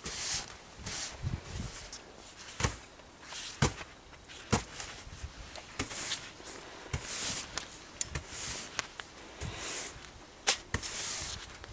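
Footsteps crunching and scuffing in snow, with irregular short swishes and several sharp clicks and knocks.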